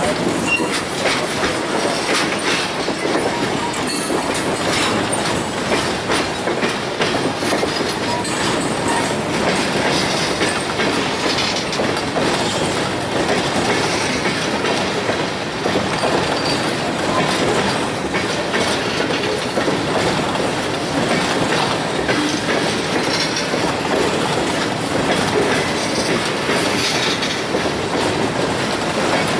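Ore train's railroad cars rolling past steadily, wheels clattering over the rail joints, with some squeal from the wheels.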